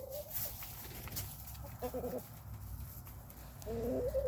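Chickens settling on the roost giving soft, drawn-out calls: one tails off at the start, a short call comes about two seconds in, and a longer one near the end.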